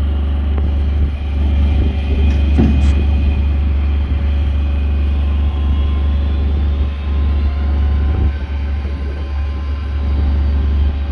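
Truck-mounted crane's engine running steadily: a constant low rumble.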